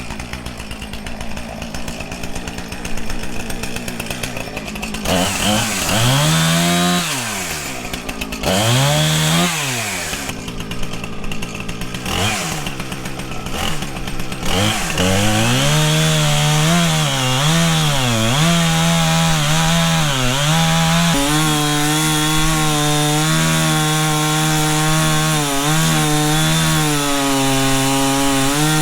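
Chainsaw cutting into a walnut trunk to fell the tree. It revs up and down several times, then runs at steady high speed through the cut, its pitch dipping briefly now and then as the chain takes load.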